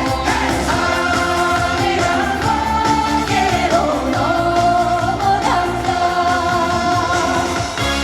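Female trot singer singing live over a played backing track, holding long notes that bend and slide between pitches.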